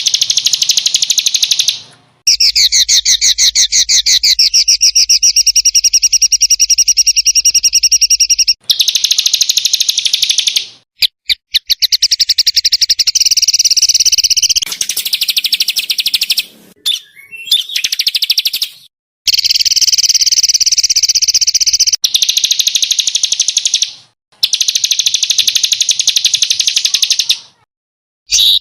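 A burcil songbird giving loud, harsh, rapid-fire trilled 'shooting' song. The trills come in long runs of several seconds each, broken by short pauses. This is the kind of recording played to train other songbirds.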